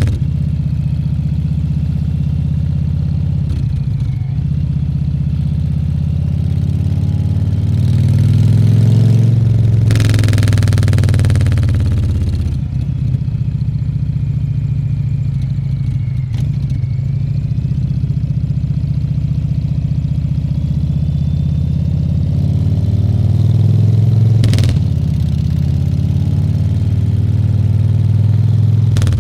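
Harley-Davidson Fat Bob 114's Milwaukee-Eight 114 V-twin running under way, its low engine note swelling twice as the throttle opens. A short rush of wind noise passes about ten seconds in.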